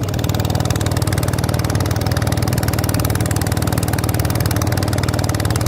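Boat motor running steadily, a low hum with a fast even firing rhythm and a hiss of wind and water over it.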